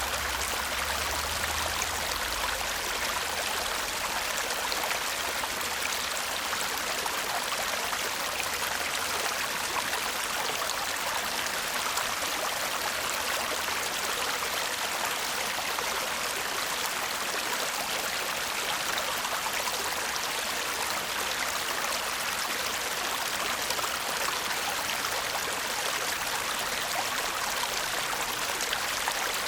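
Shallow brook babbling steadily, an even rush of flowing water.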